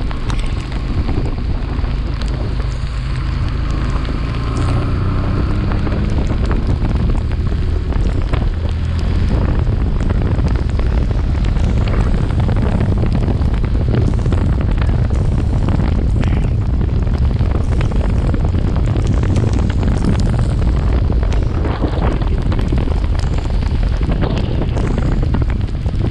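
Wind buffeting a chest-mounted action camera's microphone on a moving motorcycle: a loud, steady rumble, with the bike's engine and road noise beneath it.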